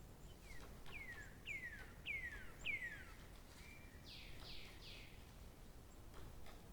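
A songbird singing: a run of five clear whistled notes, each sliding down in pitch and growing louder, then a short level note and three fuller falling notes, over a faint low background rumble.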